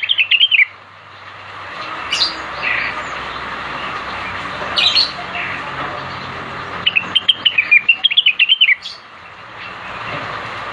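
Cucak wilis leafbird calling: a fast run of high chirps at the start, single sharp calls about 2 and 5 seconds in, then another fast chirping run for about two seconds, over a steady background hiss.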